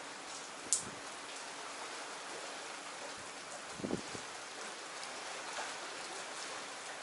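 Steady rain falling, with individual raindrops ticking on a surface, one sharp drop about a second in and a dull thud near the middle.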